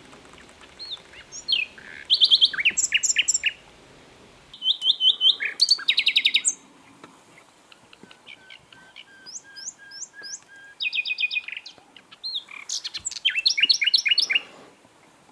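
A songbird singing in bursts of rapid, high-pitched repeated chirps and trills, four phrases with short pauses between them.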